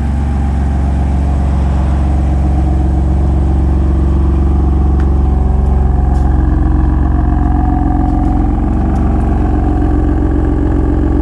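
BMW M4's twin-turbo straight-six running steadily through an AWE SwitchPath exhaust with its valves closed.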